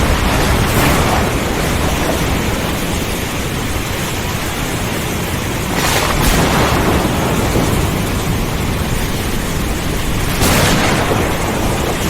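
Thunderstorm: a steady heavy downpour with a low rolling rumble of thunder, broken by sudden cracks of thunder near the start, about six seconds in and again near the end.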